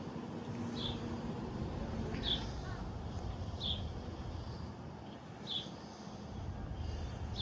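A bird chirping, one short high note every second or two, over a steady low rumble.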